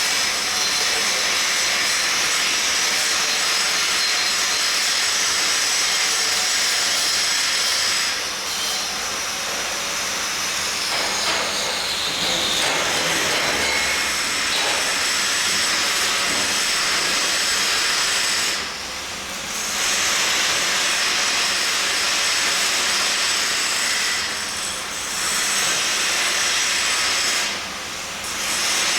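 Steady hiss of a welding arc, broken off a few times for a second or so.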